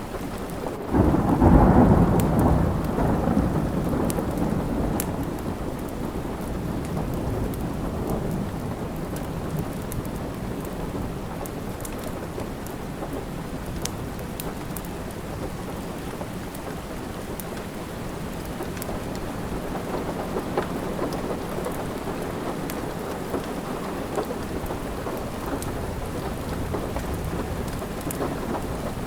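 Steady rain with a clap of thunder about a second in that rumbles away over several seconds, and scattered crackles of a wood fire in a fireplace.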